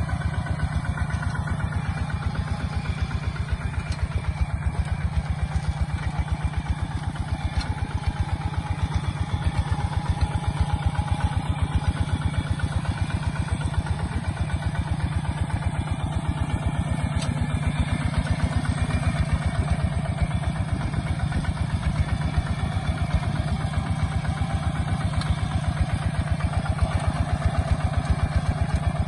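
Kubota ZT140 single-cylinder diesel engine on a walking tractor, running with a steady, even chugging.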